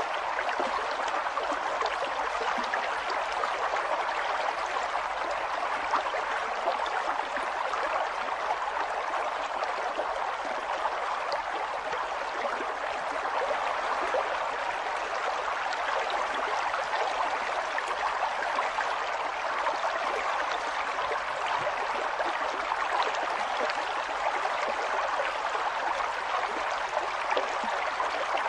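River water flowing and burbling steadily over stones, an even rushing with fine gurgles and splashes and no pauses.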